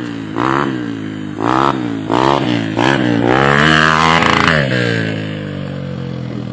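Dirt bike engine revving up and down several times as the throttle is opened and closed, with a longer pull in the middle. A rushing noise sits over that pull.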